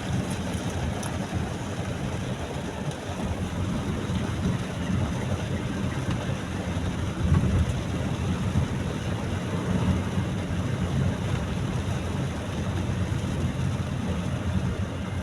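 Steady low rumble of a car driving, heard from inside the cabin, with a brief louder swell about seven seconds in.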